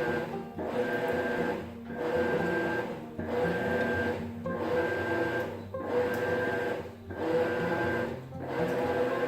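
Maytag top-load agitator washer agitating: the motor and agitator whir through back-and-forth strokes, with a brief drop each time the agitator reverses, about every one and a third seconds.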